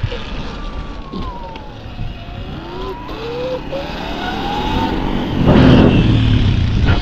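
Electric motor whine of a Sur-Ron Light Bee X electric dirt bike being ridden, its pitch falling and then rising with speed. About five and a half seconds in, a louder rushing noise with a low rumble takes over.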